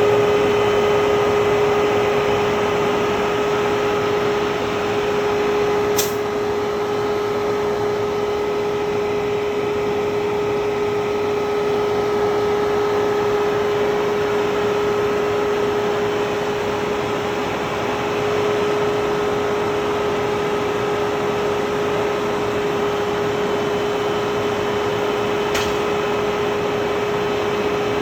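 Air-conditioning equipment running: a steady whirring noise with a constant hum, and two short clicks.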